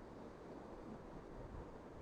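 Faint, even background noise with no distinct sounds.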